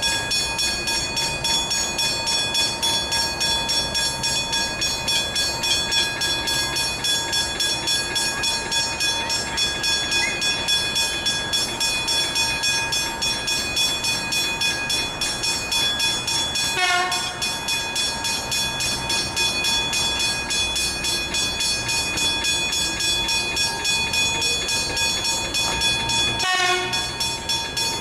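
Railway level crossing warning bells ringing steadily, a fast, even, metallic ringing, while a train runs through; a rising whine from the train comes in over the last few seconds, and two brief sharper sounds cut in, one a little past halfway and one near the end.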